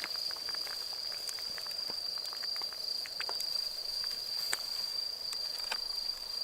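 Insect calling as one steady high-pitched note, with scattered small sharp clicks and crackles.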